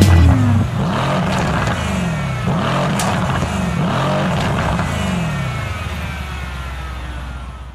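Car engine accelerating hard through several gear shifts, its pitch climbing and dropping back with each shift, then fading out.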